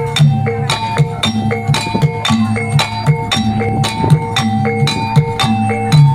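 Live Javanese reog accompaniment: drums and tuned metal gong-chime percussion playing a steady, repeating rhythmic pattern, with sharp strikes several times a second.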